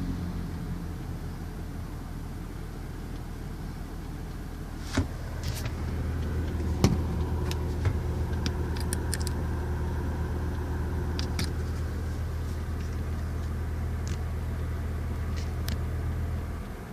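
Toyota Prius engine running steadily with a low hum, which cuts off suddenly near the end. Scattered sharp clicks and taps sound over it from about five seconds in.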